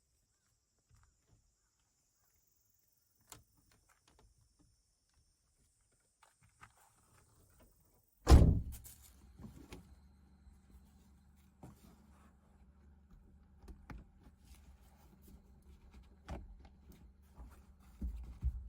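A car door shutting with a single heavy thunk about eight seconds in. After it comes a low steady hum with scattered small knocks and clicks.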